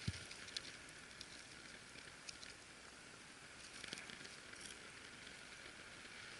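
Faint crackling of a small campfire of damp wood just catching, with scattered sharp pops over a soft hiss. A low thump at the very start.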